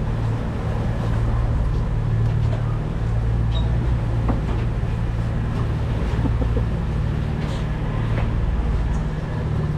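Boat engine running with a steady low drone, heard on board.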